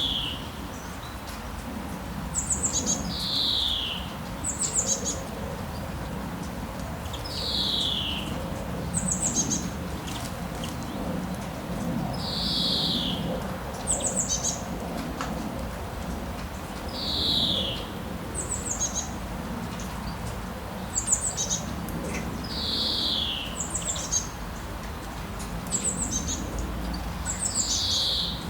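Steady rain with a bird calling repeatedly over it: a falling whistled note, then a short burst of high chirps, the pair coming round every few seconds.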